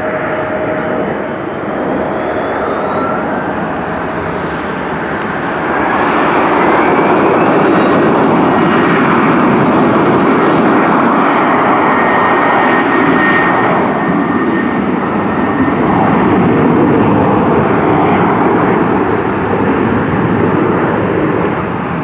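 Jet airliner passing close: a loud engine rush that swells about five seconds in, with faint whistling tones gliding above it, then eases slightly near the end.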